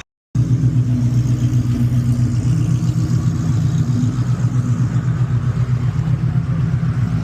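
A car engine idling with a steady, low, pulsing rumble. It comes in suddenly after a brief silent gap at the very start.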